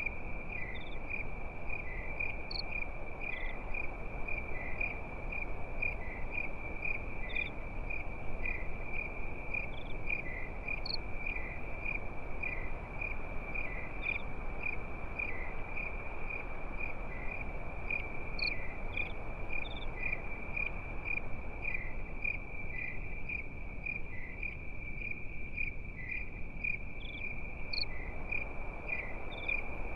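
Crickets chirping at night: a steady high trill pulsing in an even, fast rhythm, with a few scattered higher chirps from other insects. A low, even hiss runs underneath.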